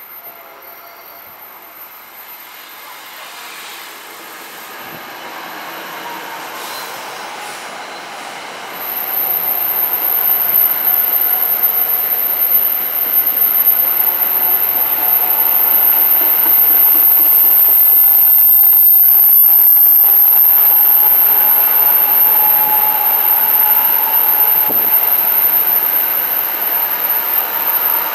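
NJ Transit Arrow III electric multiple-unit train approaching and running past close by on steel rails. It grows louder over the first several seconds, then turns loud about nine seconds in as the cars come alongside, a steady rumble of wheels on rail under a thin, high whine.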